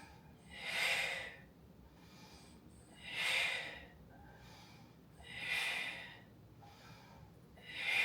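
A woman's breathing during bridge lifts: four audible breaths, about two and a half seconds apart, timed to the lifting and lowering.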